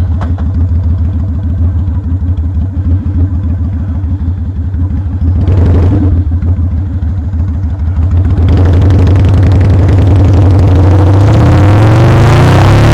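Motorcycle engine running with a low, even pulse, then pulling away about two-thirds of the way through: a rushing noise builds and the engine note climbs near the end.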